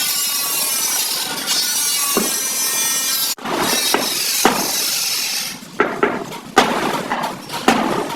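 Angle grinder whining steadily against sheet metal, cutting out briefly once, then stopping about five and a half seconds in; several sharp hammer blows on metal follow.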